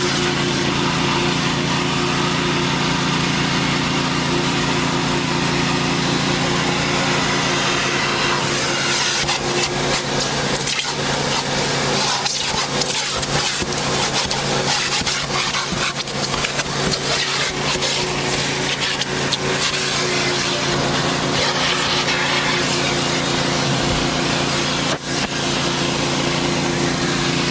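Vacuum cleaner running steadily, a motor hum under a loud rushing hiss, with irregular crackling and clicking through the middle stretch.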